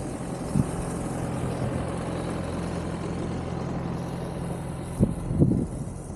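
Vehicle engine running steadily under a constant rush of noise, with short low thumps about half a second in and again near the end.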